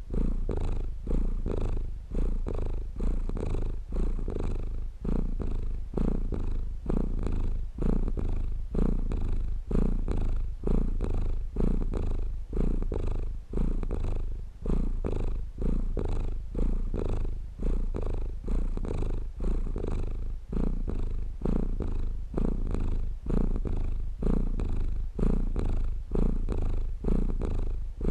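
Domestic cat purring close to the microphone, a low buzzing purr that swells and dips with each breath in and out, a little more than once a second.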